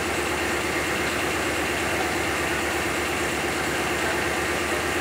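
A motor running steadily with a fast, even pulse, as of machinery idling.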